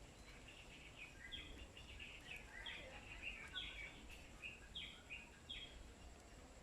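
Small birds chirping faintly: a busy run of short, quick notes, several of them dropping in pitch, thinning out near the end.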